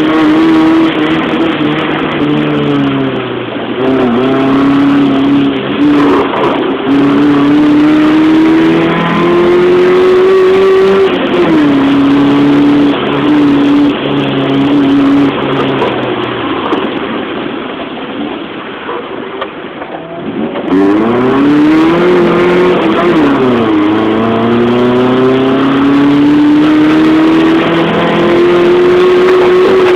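Car engine heard from inside the car on a racing lap, accelerating and shifting up through the gears, with a sharp drop in pitch at each change. Midway it eases off and goes quieter for a few seconds, then pulls hard again with another upshift.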